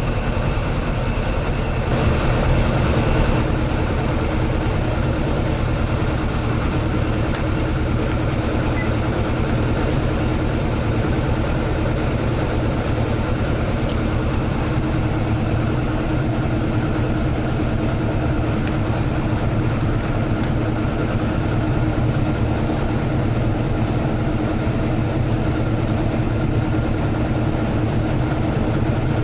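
AE86's swapped-in AE101 4A-GE 20-valve engine idling steadily, with a brief swell in level about two seconds in.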